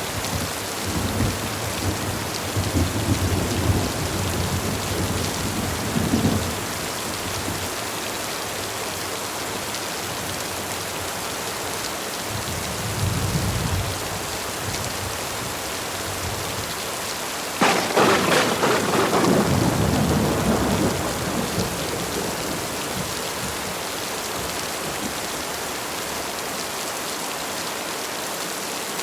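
Heavy rain pouring steadily, with rolling thunder rumbling through the first few seconds and again briefly near the middle. Past the middle a sudden sharp thunderclap rumbles on for a few seconds.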